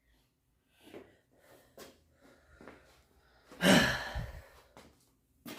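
A man breathing hard just after a set of sumo deadlifts: a few short breaths, then one loud heavy exhale about three and a half seconds in.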